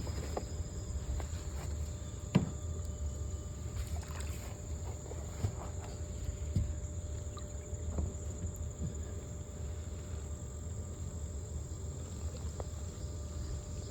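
Water swishing and sloshing around a person wading near a kayak in a river, with a few scattered knocks, the clearest about two and a half seconds in. A steady high insect trill runs behind.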